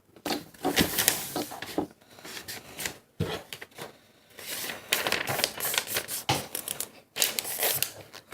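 A sheet of paper being folded and creased by hand: a run of crinkles, rustles and short crackles as the fold is pressed down.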